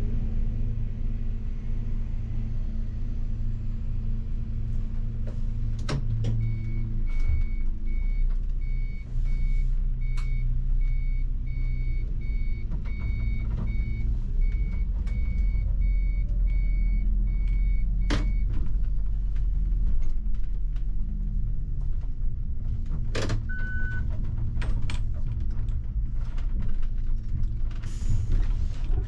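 Bus engine running steadily, heard from the driver's cab. A high electronic beep repeats at an even rhythm for about twelve seconds from roughly six seconds in, and a few sharp clicks and a short single beep follow later.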